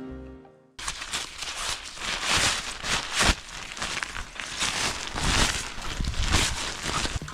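Music fading out, then from about a second in a continuous rustling and crunching made of many quick, irregular crackly strokes.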